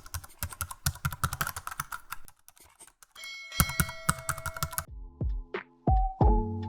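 Rapid keyboard typing clicks for about two seconds, then a short pause and more clicking over a bright ringing tone. About five seconds in, intro music with deep bass notes and a beat starts.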